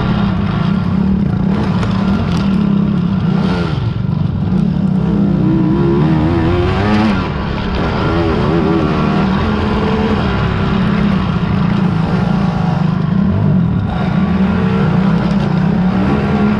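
Racing quad (ATV) engines revving up and down over a constant low engine drone, the pitch rising and falling several times as the machines ride the course.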